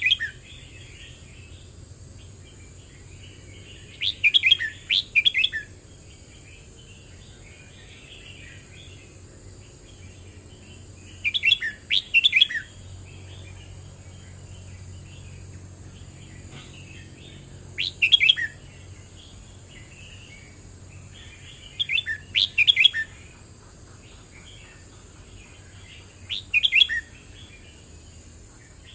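Red-whiskered bulbul singing: short, loud whistled phrases every four to seven seconds, with softer twittering between them.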